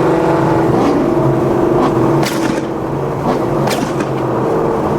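Car engine running steadily at low revs, with a few sharp clicks about two and three and a half seconds in.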